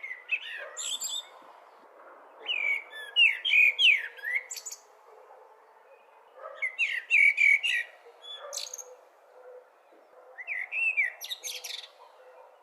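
Blackbird singing: four phrases of warbled notes, each running into higher twittering, with pauses of about two seconds between them, over a steady background hiss.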